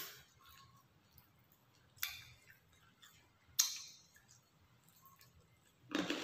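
Close-up chewing of grilled chicken satay, with a few sharp, wet mouth clicks and smacks, about two and three and a half seconds in. A short voice-like murmur comes near the end.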